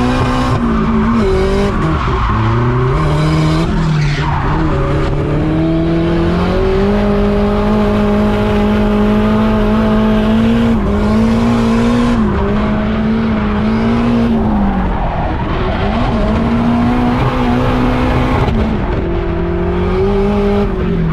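Turbocharged Nissan Silvia drift car's engine held at high revs through drifts, its pitch dipping and climbing several times, with tyres squealing.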